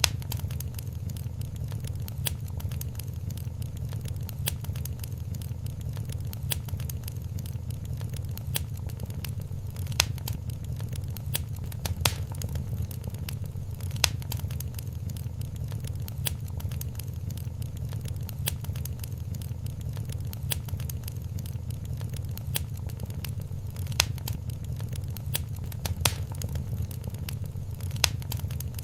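Wood fire crackling in a fireplace: a steady low rumble of the flames with constant small crackles and a sharp, louder pop every few seconds.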